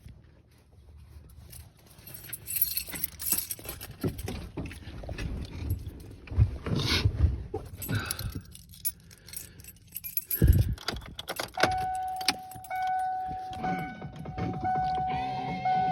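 Car keys jangling and clinking as they are handled, with a couple of heavy thumps around the vehicle, the loudest about ten seconds in. Guitar music starts up about twelve seconds in.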